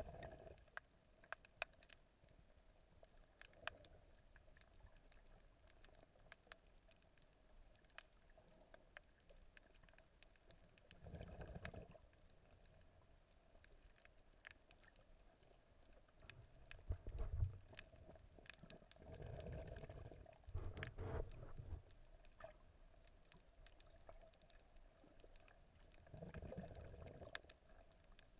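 Faint, muffled underwater sound of water moving during snorkelling: scattered sharp clicks and a few low swishing swells, the longest in the middle.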